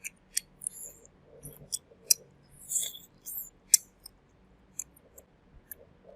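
Crisp fried chicken thigh crunching in a string of irregular sharp cracks and clicks, with short crackly bursts between them; the loudest crack comes a little before the middle.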